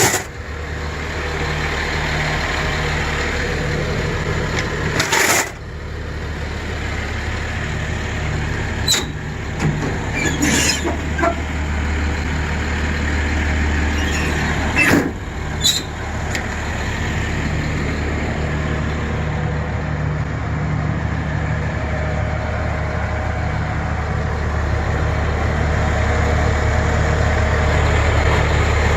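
1999 C7500 medium-duty truck's engine idling steadily, with several short sharp knocks in the first half.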